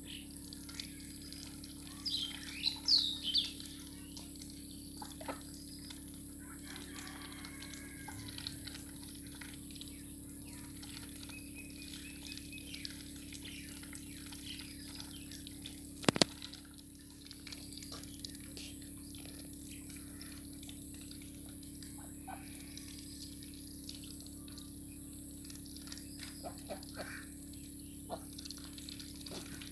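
Birds chirping: a short burst of high chirps about two to three seconds in, then a few faint calls near the end, over a steady low hum. A single sharp click sounds about halfway through.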